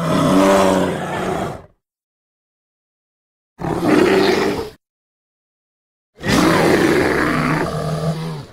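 Three bear roars from a film's sound track, cut one after another with dead silence between; the last is the longest, about two seconds.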